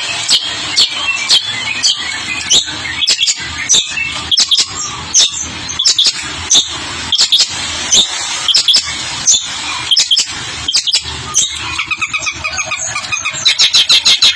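Long-tailed shrike (pentet) calling in loud, sharp, short notes about two a second, breaking into a fast run of notes near the end.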